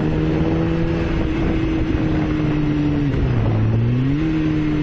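Motorcycle engine running at a steady cruising note under wind noise. About three seconds in, the engine note drops, holds lower for about a second, then rises back as the rider rolls on again.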